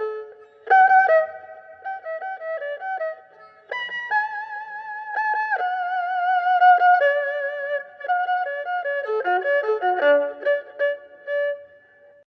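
Erhu playing a folk melody: held notes with vibrato alternating with quick runs, ending on a long held note that fades out near the end.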